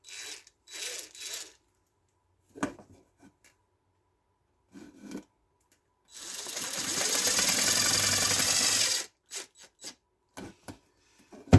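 Power drill running for about three seconds, starting about six seconds in and stopping abruptly. A few short scrapes and clicks of parts being handled come before and after it.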